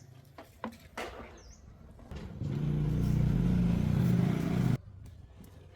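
A motor runs steadily for about two and a half seconds and then cuts off abruptly. A few light knocks come before it.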